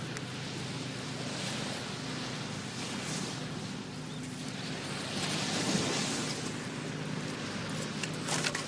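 Small sea waves washing onto the shore, the wash rising and falling in several surges, with a few sharp crackles near the end.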